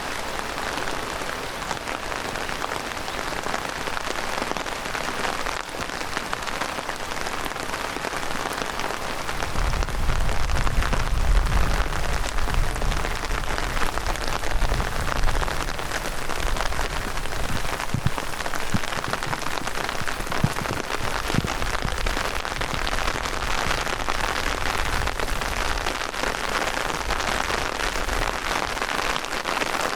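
Heavy rain falling steadily in a downpour. A low rumble comes in about a third of the way through and lasts several seconds, followed by a few dull knocks.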